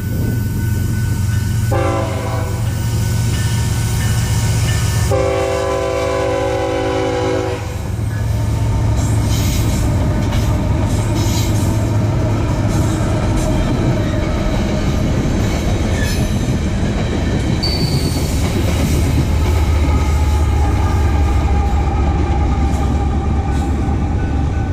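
Locomotive air horn sounding two long blasts over the low rumble of a train. The train then rolls past with steady rumbling and wheels clacking over the rail joints.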